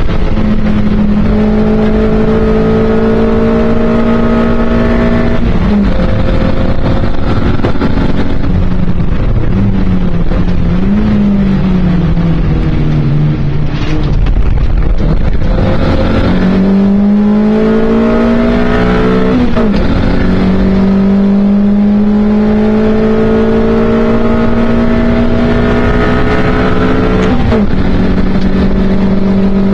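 Mk1 Toyota MR2's four-cylinder engine heard from inside the cabin at racing speed, the revs climbing steadily in each gear and dropping sharply at each upshift, three times. Around the middle the revs fall and waver as the car slows through a bend, then build again.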